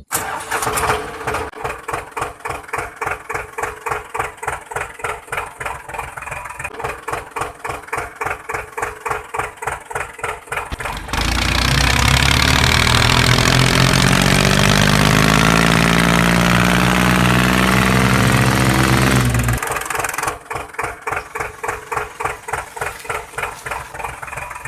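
Homemade mini tractor's small motor running with a rhythmic pulse of about four beats a second. About eleven seconds in, a louder, steady whirring sound with a shifting pitch takes over for about eight seconds, and then the pulsing returns.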